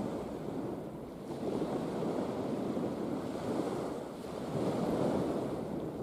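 Mediterranean sea waves washing in and out, swelling and easing every couple of seconds, with wind rumbling on the microphone.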